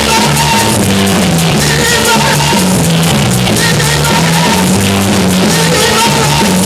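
Loud band music with a stepping bass line and a drum kit keeping a steady beat.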